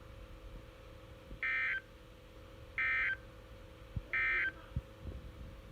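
NOAA Weather Radio SAME end-of-message code heard through a weather radio receiver's speaker: three short, identical digital data bursts about a second and a half apart, marking the end of the tornado watch broadcast.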